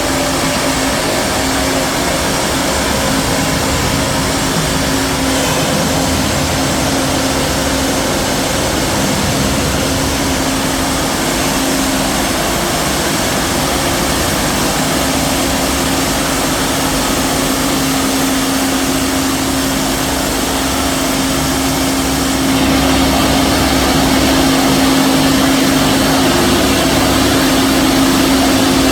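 Tunnel jumbo drill's hydraulic rock drills drilling blast holes into the rock face: loud, continuous drilling noise with a steady hum underneath, growing louder about 22 seconds in.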